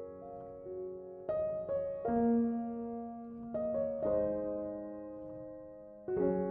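Soft background piano music: slow sustained chords, a new one struck every second or two and left to fade.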